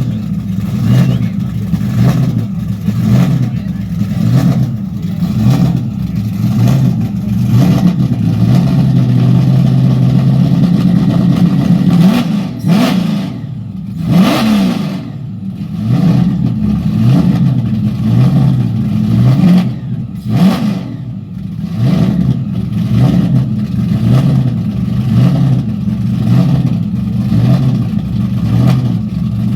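Car engine running loudly: it is held at steady revs for a few seconds near the middle, then revved up and back down, with further throttle blips.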